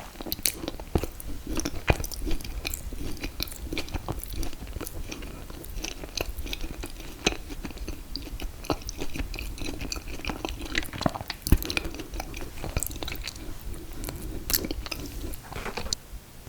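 Close-miked chewing and biting of an ice cream cake (confetti cake and mint chocolate chip ice cream), with many wet mouth clicks and smacks all through.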